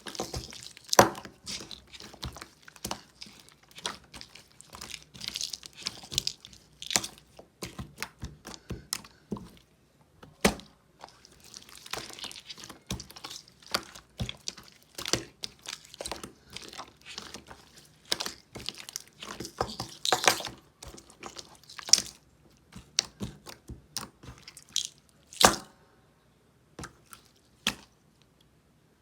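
Clear glitter slime being squished and stretched by hand, making irregular sticky, wet pops and clicks. A few louder pops stand out, and it thins out near the end.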